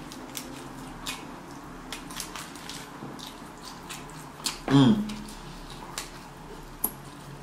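Close-miked chewing of a chicken gyro: wet mouth clicks and smacks, with a louder bite and a short falling vocal sound about five seconds in.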